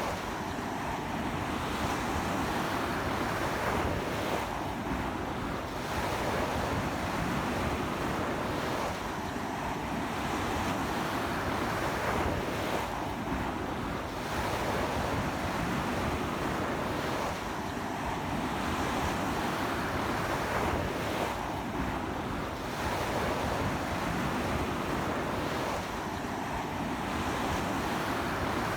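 Strong sea waves breaking on a beach, a continuous wash of surf that swells and eases about every four seconds, with wind buffeting the microphone.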